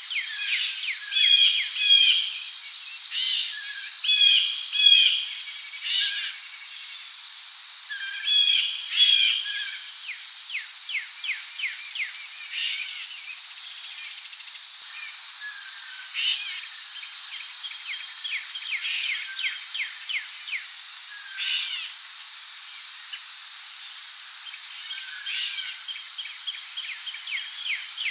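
Rainforest ambience: a steady high-pitched insect drone, like crickets, with birds chirping over it, in quick repeated phrases during the first ten seconds and then in scattered calls.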